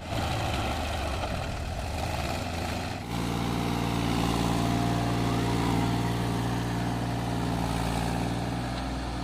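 Mahindra 275 DI tractor's diesel engine running. About three seconds in, the sound switches abruptly to a steadier, even engine note that holds without revving.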